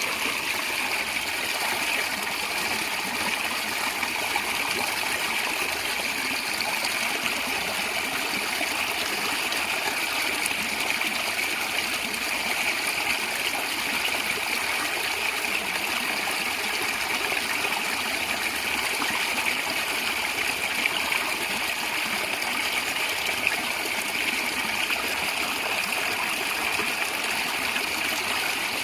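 A stream of water running and gurgling steadily, a constant even rush without breaks.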